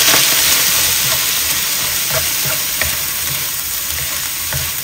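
Squid pieces sizzling loudly in hot oil in a wok as they are stir-fried, the hiss easing slightly. A spatula scrapes and taps against the pan a few times.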